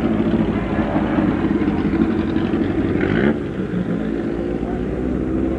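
Hill-climb race car engine running hard under load, with a brief dip about three seconds in, then holding a steady note that slowly rises in pitch.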